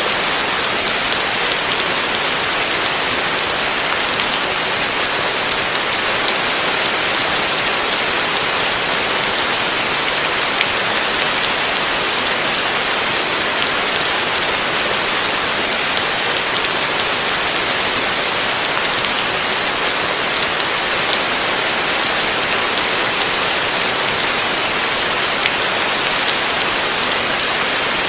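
Heavy rain falling steadily on a roof: a dense, even hiss of countless drops, unchanging throughout.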